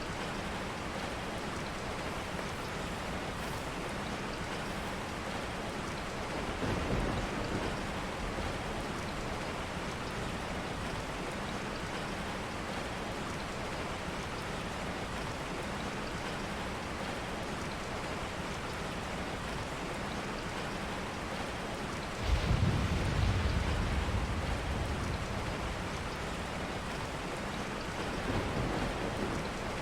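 Steady rain falling, with thunder: a faint rumble about seven seconds in, a louder clap that starts suddenly about twenty-two seconds in and rumbles away over a few seconds, and another faint rumble near the end.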